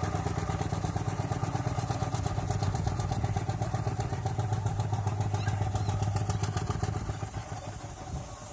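A 4-inch scale Burrell steam traction engine running along the road, a steady fast rhythm of mechanical clatter over a low drone. It fades away about seven seconds in.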